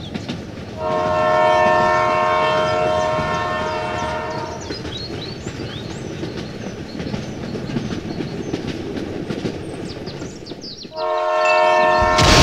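Train horn blowing a multi-tone chord for about four seconds, then the train rolling along the rails with a rumble and clickety-clack. A second horn blast starts about eleven seconds in.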